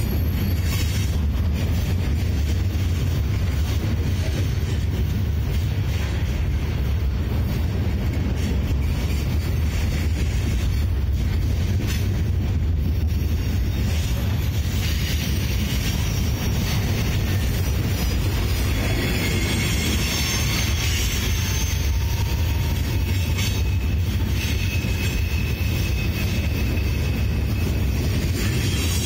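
Freight train of steel gondola cars rolling steadily past: a continuous, even rumble of steel wheels on rail, heaviest in the low end.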